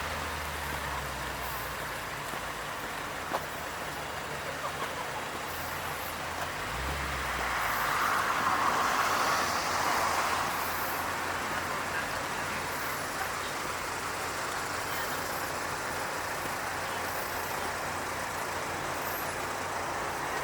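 A car passing by on the road, its noise rising and falling with a peak about eight to ten seconds in, over steady traffic noise.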